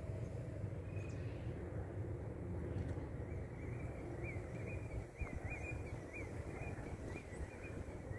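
A low, steady outdoor rumble, with a small bird chirping a quick run of repeated short up-and-down notes from about three seconds in.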